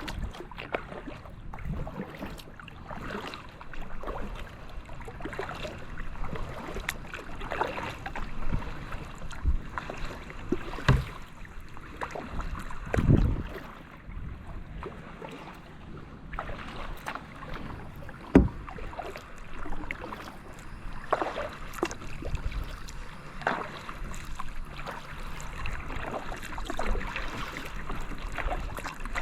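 Kayak paddle strokes dipping and splashing in calm water, coming irregularly, with a sharp knock about 18 seconds in.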